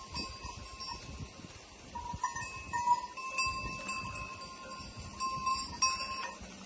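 Neck bells on a grazing flock of sheep ringing irregularly, several bells overlapping as the animals move and feed.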